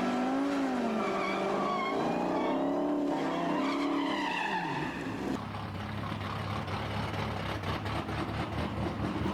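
Car engines revving at a drag strip, the pitch rising and falling slowly for about five seconds. About five seconds in, this gives way abruptly to a steadier engine and tyre noise with a low hum.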